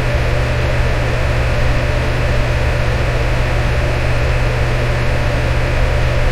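Electric fan running steadily: an even rush of air over a strong low hum, unchanging throughout.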